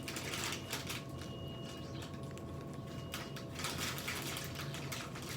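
Close-miked chewing of shrimp salad: irregular small wet mouth clicks and soft crunches over a steady low hum.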